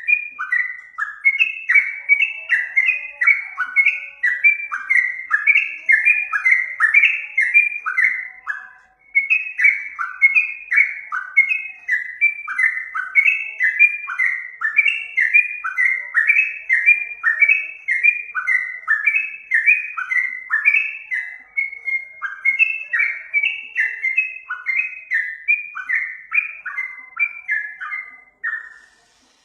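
Yellow-vented bulbul (trucuk) singing in a fast, continuous run of short whistled notes, each sliding down in pitch, about two to three a second, with a brief pause about nine seconds in and another near the end.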